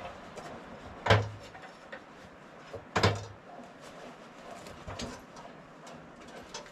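Two loud clunks about two seconds apart, each with a short low thud and brief ringing, among smaller clicks and knocks of things being handled.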